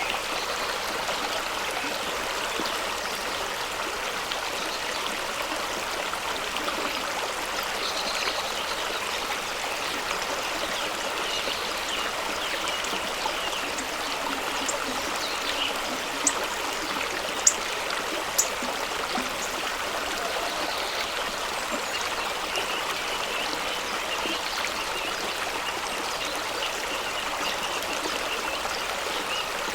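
Fast-flowing stream rushing and splashing over rocks: a steady, even rush of water. About halfway through, three sharp ticks stand out briefly above it.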